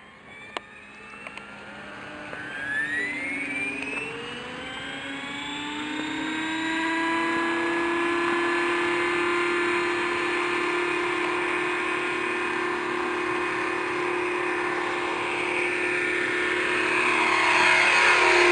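Electric RC helicopter's motor and rotor spooling up: a whine that rises in pitch over the first several seconds, then holds steady, with a louder rushing swell near the end.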